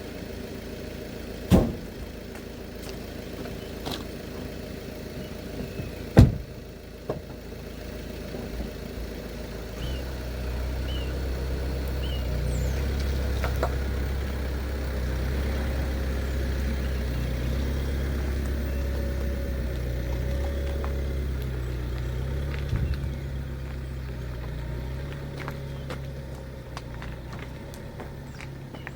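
Two sharp knocks in the first few seconds, then a vehicle engine running low and steady for about fifteen seconds before it fades.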